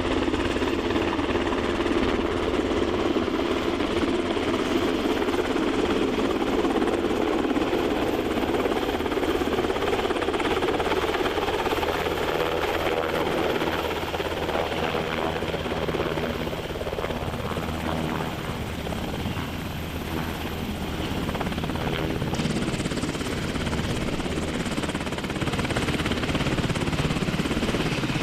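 CH-53 heavy-lift helicopter running close by, its rotor and turbine engines making a loud, steady noise with a thin high whine over it.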